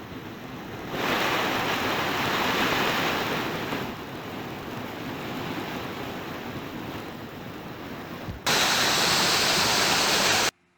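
Steady rush of a waterfall's falling water with no tones in it, stepping abruptly louder and softer: louder about a second in, softer near four seconds, much louder past eight seconds. It then cuts off suddenly just before the end.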